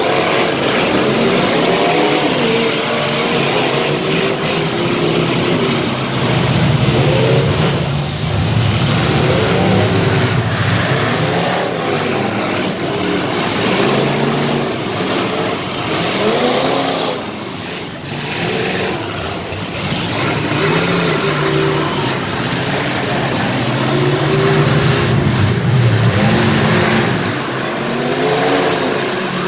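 Engines of several full-size demolition derby cars revving hard over one another, their pitch climbing and falling again and again as the cars push and ram.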